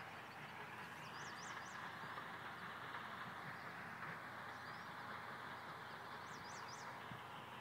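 A songbird giving quick, high three-note chirps, once about a second in and again near the end, over a faint steady hiss.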